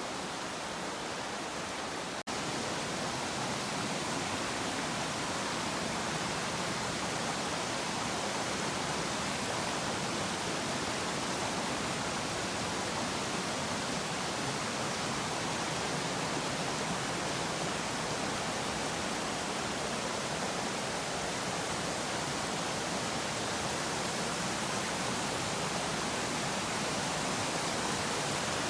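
Waterfall: a steady, even rush of falling water, with a brief break about two seconds in, after which it is slightly louder.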